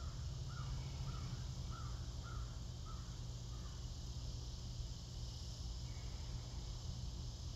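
A bird calling in a quick series of short, repeated notes, about two a second, that stop about three seconds in. A steady high hiss and a low hum run underneath.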